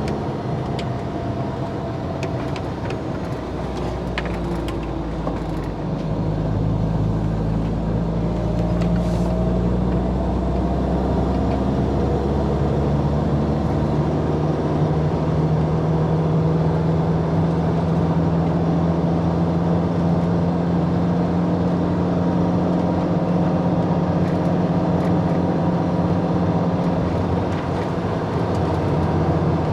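A vehicle driving: a steady engine hum over road rumble, rising in pitch as it gathers speed about a quarter of the way in, then holding at a steady cruise.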